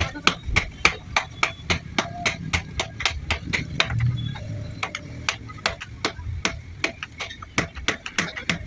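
Rapid hammer blows on metal, about three to four strikes a second, each with a short metallic ring.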